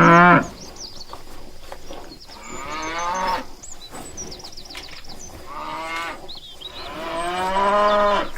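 Cows mooing repeatedly: a loud moo at the start, two shorter ones in the middle, and a long, drawn-out moo near the end.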